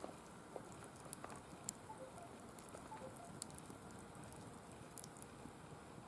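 Firewood burning in a mesh fire pit: faint, scattered crackles and pops over a low hiss, with a few tiny squeaks between two and three seconds in.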